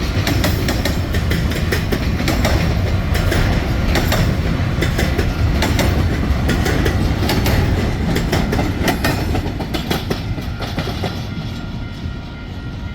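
Norfolk Southern freight train rolling past over a road crossing: a heavy rumble with rapid, irregular clacks of wheels over rail joints. It eases off slightly near the end.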